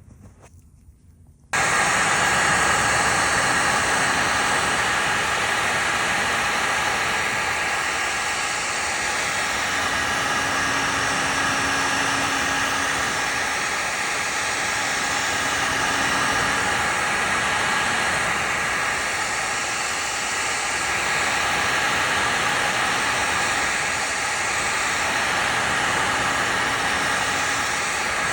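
Heat gun switched on about a second and a half in, then running steadily: a rush of blown air with a faint whine in it, heating heat-cure vinyl filler to cure it.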